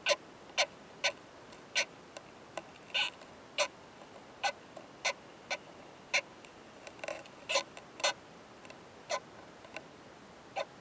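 Sharp, irregularly spaced clicks, about one to two a second and some in quick pairs, made by a male オオマダラコクヌスト beetle (a trogossitid bark beetle) during mating. The male gives this hard, fierce 'kan kan kan' sound.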